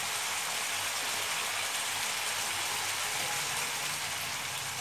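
Mushrooms and capsicum in a thick sauce sizzling steadily in a frying pan over a high flame.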